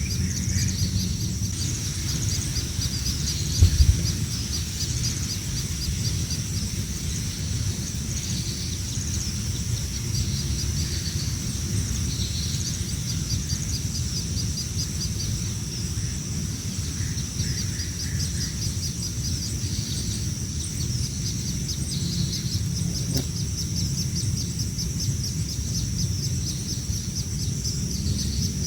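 Hungry baby birds chirping nonstop, a fast run of high-pitched begging calls, over a low rumble. A single dull thump about four seconds in.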